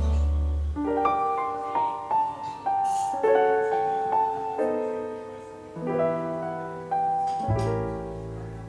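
Background piano music: a slow, gentle melody of single notes over soft chords, each note struck and left to fade.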